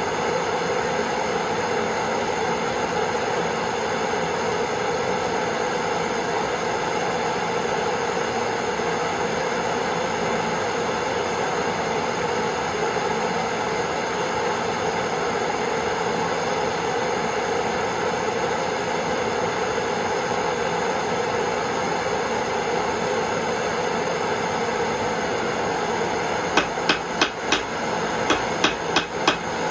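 A torch flame burning with a steady rushing hiss while a nail heats, then, near the end, a quick run of hammer blows on hot metal against an anvil, about three a second in two short bursts.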